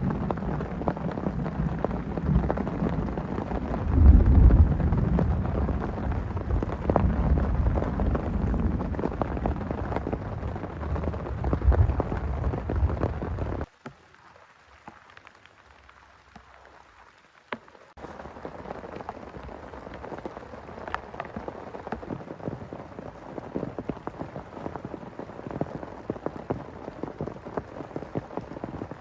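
Heavy rain pouring with a low rolling rumble of thunder, loudest about four seconds in. About halfway through the sound cuts off abruptly to near quiet for a few seconds, then lighter rain returns as a steady patter of separate drops.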